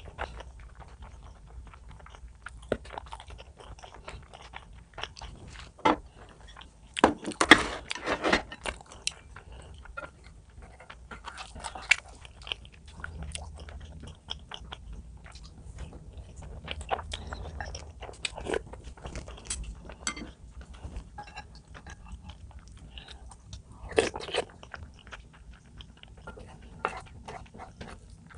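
A person chewing and biting food close to the microphone, with scattered short crunches and clicks, loudest in a cluster about a quarter of the way in and again briefly near the end.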